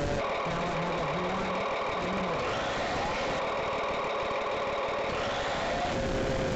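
Simulated boat engine sound from an RC sound module, played through its small speaker and running steadily.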